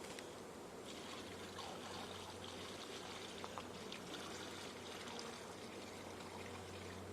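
Liquid pouring in a steady trickle that picks up about a second in, over a steady low hum.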